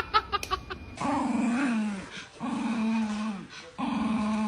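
A dog vocalizing: three drawn-out calls of about a second each, evenly spaced, each sliding down in pitch at its end.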